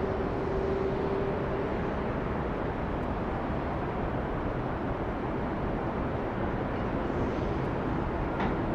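Steady rumble of jet airliner engines at the airport, with a faint steady whine that fades out about two seconds in.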